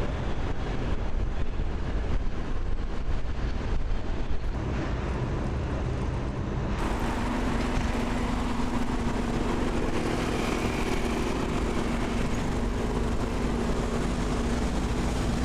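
Steady rumble of engines or traffic. About seven seconds in it changes, and a steady low hum joins it.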